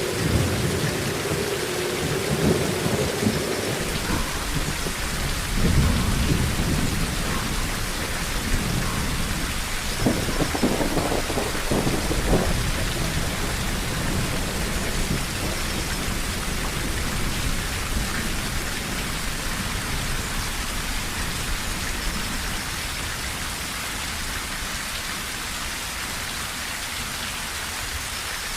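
Steady heavy rain drumming on a tin roof, with thunder rumbling in several swells over the first dozen seconds. After that only the rain continues.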